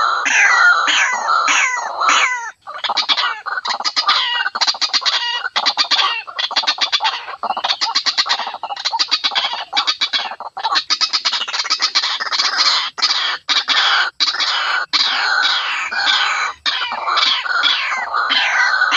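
White-breasted waterhens calling loudly in a recorded lure track. At first they give a run of falling notes several times a second, then from about three seconds in fast stuttering series of notes, and near the end falling notes again.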